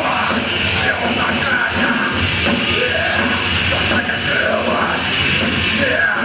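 Rock band playing loud, with a voice singing over drums.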